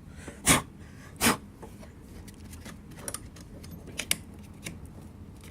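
Rear wheel and drive parts of a self-propelled walk-behind mower being handled and fitted back on: two knocks about half a second and a second in, then a few light clicks.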